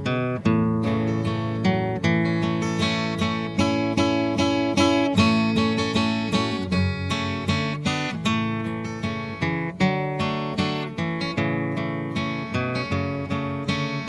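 Background music: an acoustic guitar strumming and picking chords at a steady pace.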